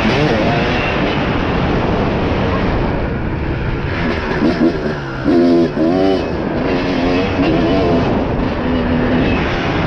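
Dirt bike engine running under throttle, its pitch rising and falling with the revs, with several quick rev rises between about four and six seconds in, over a steady rushing noise.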